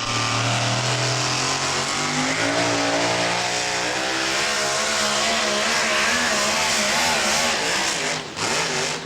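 Super modified four-wheel-drive pulling truck's engine running at high revs during a pull. Its pitch climbs over the first few seconds, then wavers up and down, and drops off sharply near the end.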